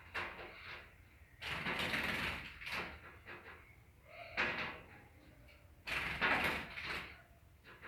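A small bird fluttering and scrabbling against its own reflection in a mirror, its wings and beak knocking and rattling on the glass. It comes in irregular bursts, the longest about a second and a half in and about six seconds in.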